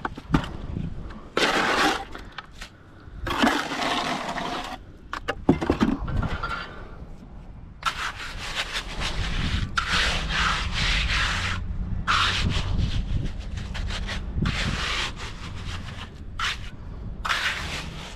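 Repeated rough scraping strokes of a hand tool working concrete, a few at first and then many in close succession. A low steady hum runs underneath in the second half.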